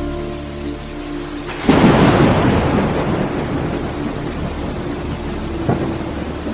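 Steady rain with a sudden loud thunderclap about a second and a half in that rumbles away over several seconds, and a smaller crack near the end.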